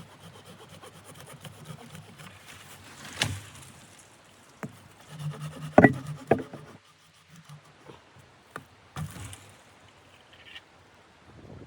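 A series of irregular knocks and clunks, the loudest about six seconds in, over a faint low hum.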